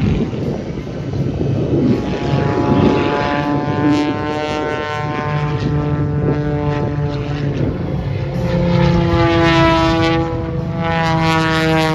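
Propeller airplane flying past, its engine and propeller tone drifting slowly down in pitch, growing louder in the last third.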